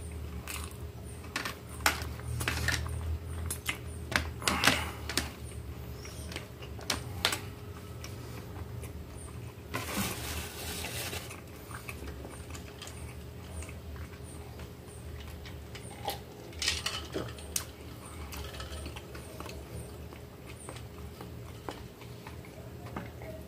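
Close-miked chewing and mouth sounds of someone eating, a run of wet clicks and smacks, over a steady low hum. About ten seconds in, a brief hiss of breath.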